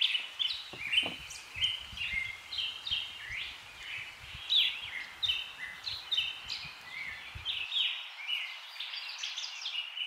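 Songbirds chirping and singing, many short overlapping notes and quick falling chirps, over a faint low background noise that cuts out near the end.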